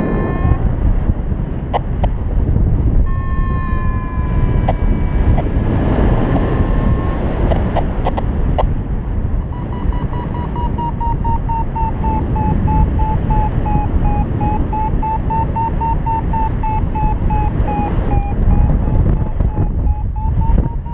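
Strong wind buffeting the microphone in flight under a paraglider, with a flight variometer's electronic tone over it. A held tone slides slowly down a few seconds in, then rapid, even beeping runs from about halfway on.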